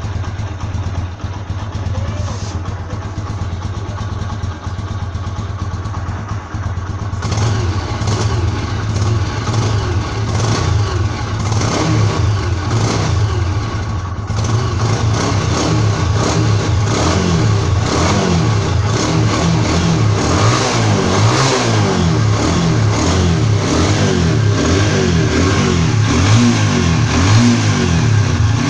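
TVS Apache motorcycle's single-cylinder four-stroke engine running on its stock exhaust, with revs rising and falling. It gets louder about seven seconds in and again around fourteen seconds in.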